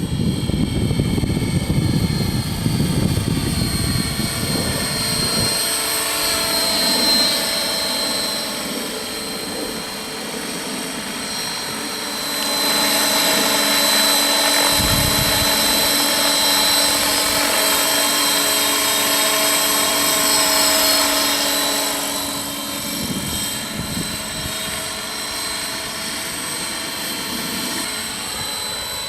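Electric 600-class RC helicopter (Align T-Rex 600 ESP) flying: rotor whirring with a steady high motor whine. It grows louder for several seconds in the middle as it comes closer, and there is a low rumble in the first few seconds.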